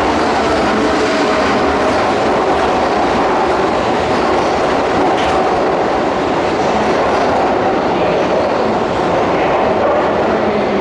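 Keihan Main Line electric train moving along the platform in an underground station: a steady, loud rumble with wheels clacking over the rail joints.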